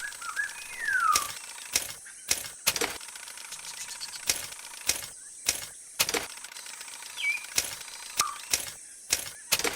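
Online slot game sound effects: a run of sharp, irregular clicks, about two a second, with a few short whistled bird chirps that slide down in pitch, one about a second in and two more near the end.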